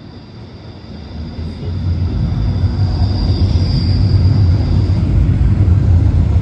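Train approaching and passing close by: a low rumble swells over the first two seconds, then runs on loudly and steadily with a thin high whine above it.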